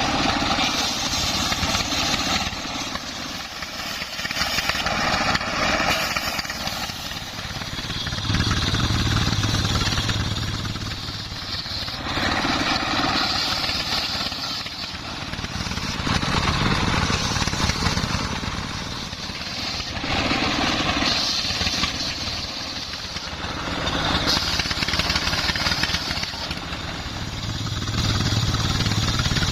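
Homemade circular saw rig driven by a Dongfeng 24 hp single-cylinder diesel engine, running steadily while the blade cuts through wood. The sound swells and eases about every four seconds.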